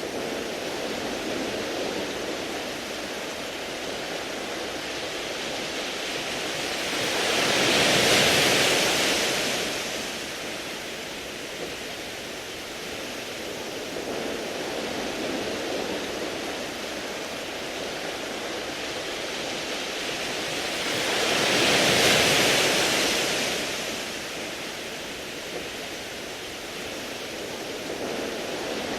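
Sea waves washing up a round-pebble beach: a steady wash of surf, with two larger waves surging in about eight and twenty-two seconds in, each swelling to a hiss and fading away.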